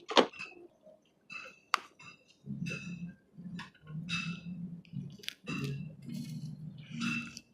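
Eating at the table: two sharp clicks of utensils against dishes, then a run of irregular close-up chewing and mouth sounds.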